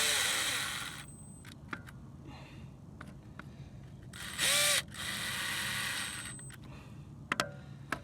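Ryobi cordless drill/driver running hub bolts in gently at a low clutch setting, spinning in three short bursts. A few sharp metal clicks follow near the end.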